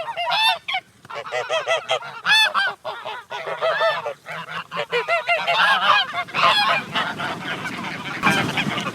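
A flock of geese honking, many short calls overlapping one another in a dense, continuous chorus.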